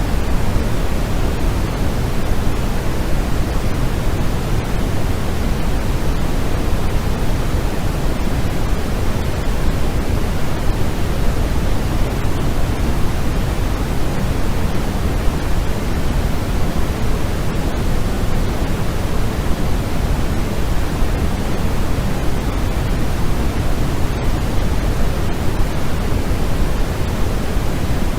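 Continuous white noise played for sleep: a loud, steady, unchanging hiss, fuller in the low end.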